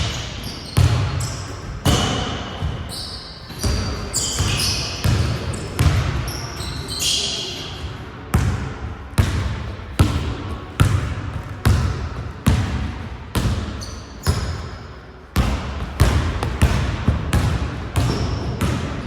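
A basketball bouncing on a gym floor, sharp thuds about one a second that echo in the large hall, with a few high squeaks in the first half.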